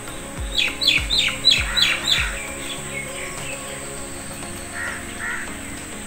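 A bird calls a quick series of about six falling notes in the first couple of seconds, then gives two softer calls near the end. Under it runs background music with steady low tones and a thumping beat.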